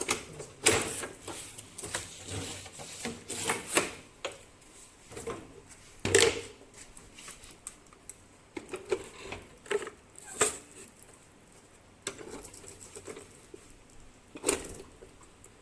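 Irregular knocks, clicks and clatter of hand work on uPVC window profiles at a window welding machine, with the loudest knock about six seconds in.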